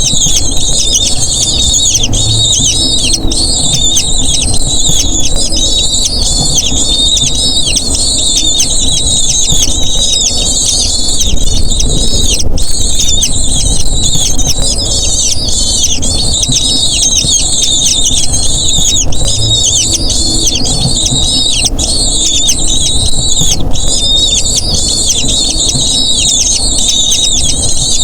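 Eagle chicks giving rapid, high-pitched begging calls without a break, over a low steady rumble.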